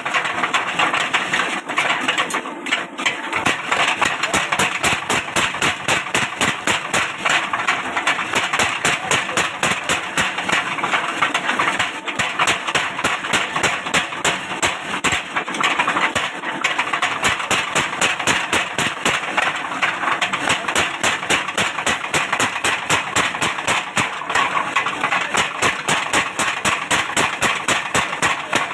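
A machine pounding steadily, about four beats a second, without a break.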